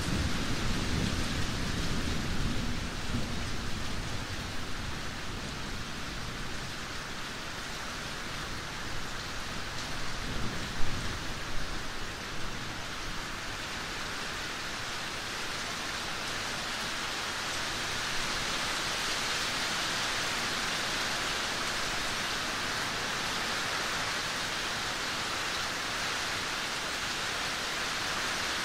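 Steady rain falling, with low rumbles of thunder during the first few seconds and again about ten seconds in, the loudest peak just before eleven seconds; after that only the even hiss of rain.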